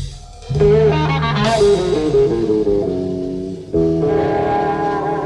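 Guitar playing a blues phrase with bent, wavering notes; new phrases strike about half a second in and again near four seconds.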